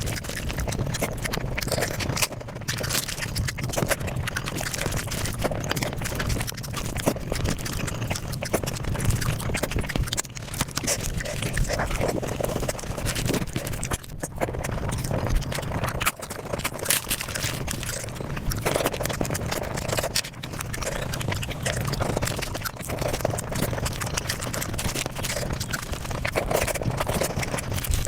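Mukbang eating sounds sped up five times: a dense, rapid run of chewing and crunching clicks that does not let up.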